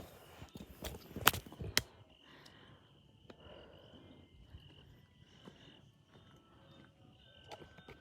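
Three sharp knocks in the first two seconds, then a faint, steady high-pitched hum, insect-like, over quiet outdoor background.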